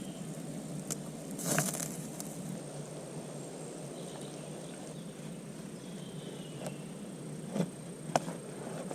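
Campfire burning with a steady low rush and a few sharp crackles and pops: a cluster about a second and a half in, and two more near the end.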